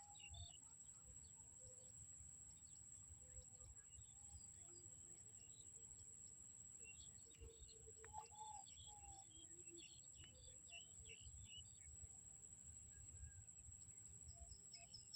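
Faint birds chirping and calling, with scattered short high chirps that cluster between about seven and twelve seconds in. A low steady rumble and a constant thin high-pitched tone run underneath.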